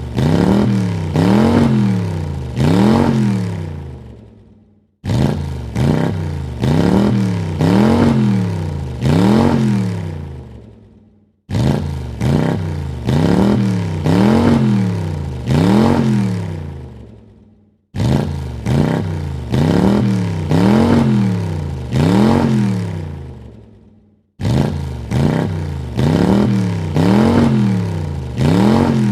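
Car engine revved in a quick series of blips, the pitch rising and falling with each one, then dying away. The same short burst of revving repeats five times, about every six and a half seconds, with a brief silence between repeats.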